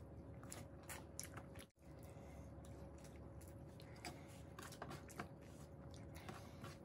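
Faint, close chewing and small wet mouth clicks of people eating rice and curry by hand, with soft squishing of fingers mixing the rice. The sound cuts out briefly about two seconds in.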